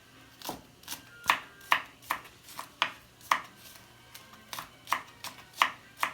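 Kitchen knife chopping scallions: a quick, uneven run of sharp knocks of the blade on the board, a little over two a second.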